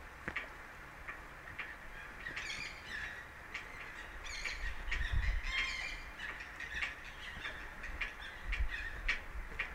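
Birds calling over and over in short, harsh squawks, busiest in the middle, with a couple of low rumbles partway through.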